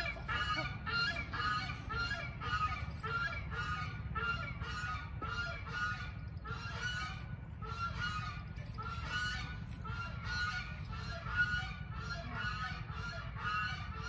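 Birds calling over and over, short honking calls about three a second, with a steady low rumble underneath.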